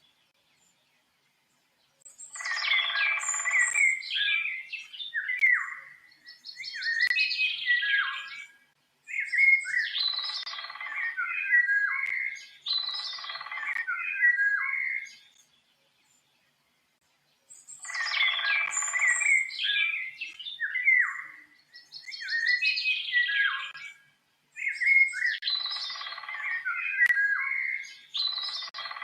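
A songbird singing in varied, warbling phrases of two to three seconds each, with short pauses between them and two longer silent gaps; the same run of phrases plays twice over.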